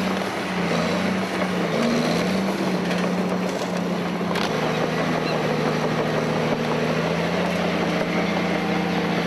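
Caterpillar D7E diesel-electric bulldozer running, a steady engine drone whose pitch wavers slightly.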